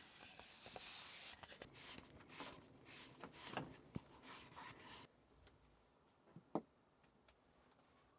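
Close rustling and scraping of things being handled, with small clicks, that stops abruptly about five seconds in, followed by one sharp click.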